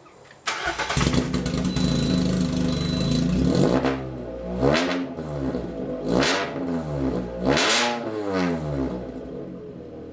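Lada Kalina 2 Sport's four-cylinder engine starting about half a second in and running with no exhaust system fitted, loud and raw, then revved three times in quick blips with a smaller blip after them before settling back to idle.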